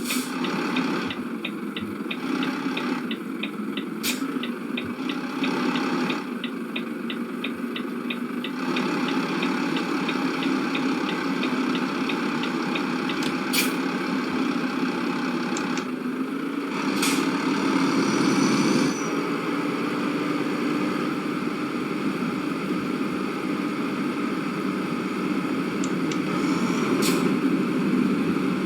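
Steady road and engine noise inside a moving car. For about the first eight seconds it is joined by the regular ticking of the turn indicator, which then stops.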